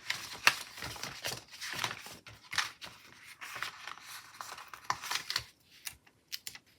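Paper sticker sheets being handled: stickers peeled off and pressed onto planner paper, a string of short crinkly rustles and small clicks that thins out to a few faint ticks for the last second or so.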